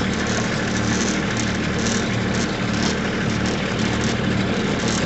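Tractor engine running steadily, with a few faint clicks and knocks over the drone.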